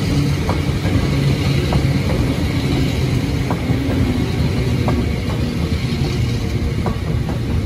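Hakone Tozan Railway Series 2000 electric train passing close by: a steady rumble of wheels and running gear, with a few sharp clacks of the wheels over rail joints.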